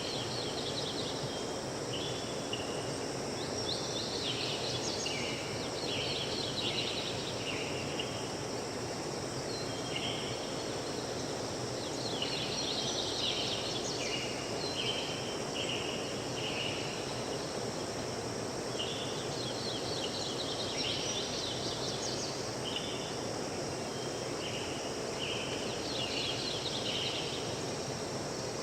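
Forest stream flowing steadily. A bird sings repeated phrases of short high notes every few seconds over it, with a steady high insect drone.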